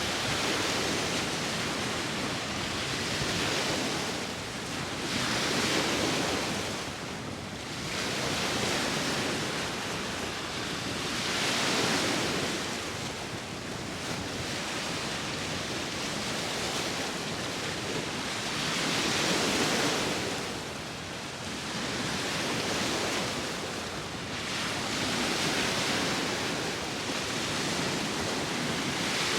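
Sea surf: waves breaking and washing up the shore, the rush swelling and easing every several seconds, with wind blowing over it.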